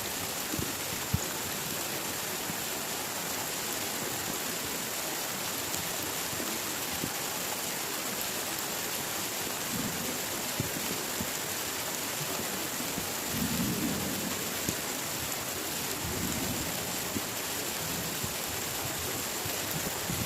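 Heavy rain falling steadily in a thunderstorm, an even hiss with scattered drop ticks. A low rumble of thunder swells a little past the middle.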